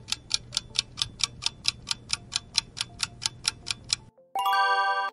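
Clock-style ticking sound effect counting down the time to choose, about four and a half ticks a second, stopping about four seconds in. A bright chime of several tones rings out just after.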